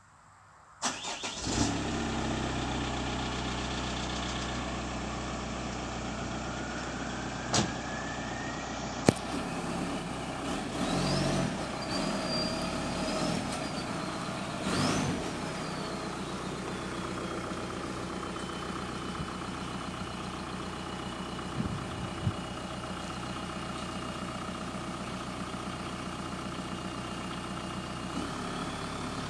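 Volkswagen Passat B5's 1.9 TDI diesel (AFN) starting about a second in and then idling, heard through an exhaust with its middle silencer missing. Two sharp clicks come around eight and nine seconds in, and the engine is revved briefly twice, a whine rising and falling with the revs.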